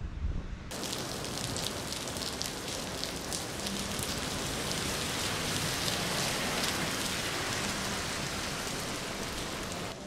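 Steady rain falling on wet pavement and parked cars: an even hiss speckled with fine crackling drops.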